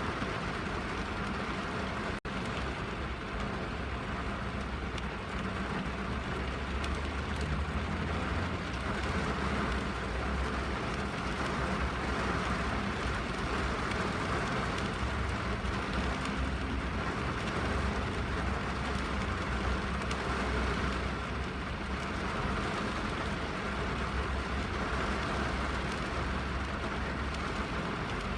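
Steady rain drumming on a car's roof and windows, heard from inside the cabin, with a deep muffled rumble beneath the patter.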